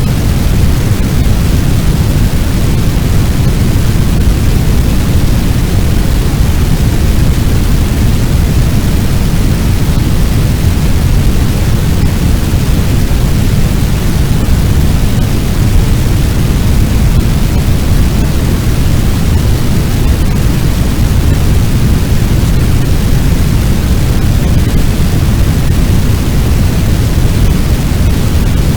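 Fire sound effect: a loud, steady low rumble with a rushing hiss over it, the sound of a large blaze, without crackles or changes.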